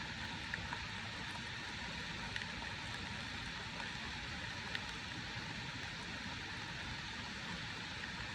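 Steady rain falling, with a few scattered louder drops ticking.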